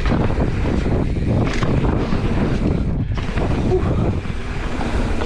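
Wind buffeting the microphone: a steady, loud, rushing rumble.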